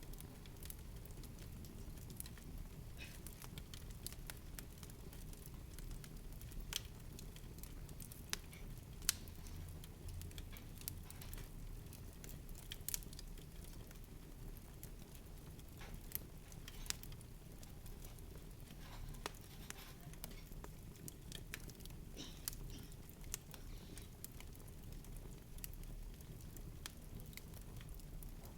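A faint, steady low rumble with irregular light clicks and ticks scattered through it.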